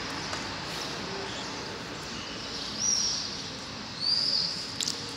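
A bird chirps twice, short high calls about three and four seconds in, over a steady hum of street background noise. A couple of sharp clicks follow near the end.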